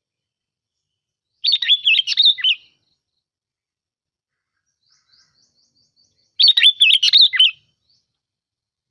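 Sooty-headed bulbul (bông lau) song: two short, bubbling warbled phrases about five seconds apart, with silence between them.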